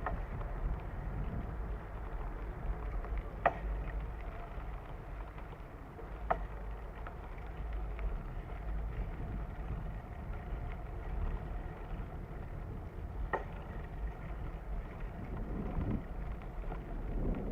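Wind buffeting the microphone and tyres rolling over a dirt trail during a bicycle ride, a steady low rumble. A few sharp knocks, three of them clear, as the bike goes over bumps.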